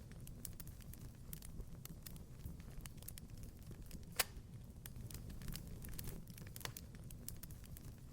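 Wood fire crackling in a fireplace: a steady low rumble of the flames with scattered irregular snaps and clicks, and one sharper pop about four seconds in.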